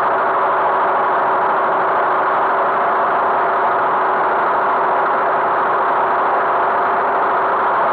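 Tractor engine running steadily, an unbroken, even engine noise with a faint steady hum.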